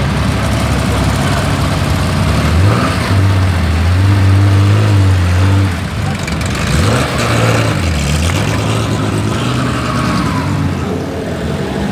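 Early Porsche 911's air-cooled engine running as the car pulls away. The revs rise about three seconds in and hold, then fall and climb again twice as it moves off.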